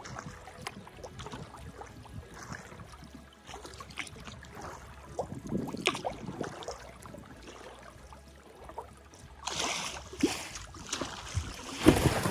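Kayak paddle strokes: water dripping and trickling off the blades with small splashes, then two louder splashing strokes near the end.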